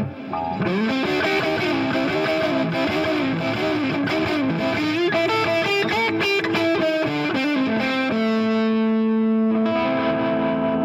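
Distorted electric guitar playing a blues lead line with string bends and vibrato, moving into long held notes about eight seconds in.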